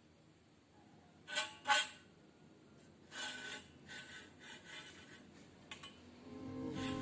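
Two sharp knocks, then several softer knocks and clatters, like hard objects being handled and set down, with no saw running; background music fades in near the end.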